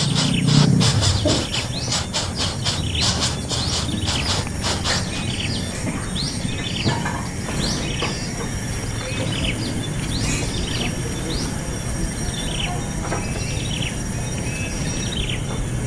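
Small birds chirping: a dense, rapid run of high chirps for the first few seconds, then scattered short high chirps, over a steady low hum.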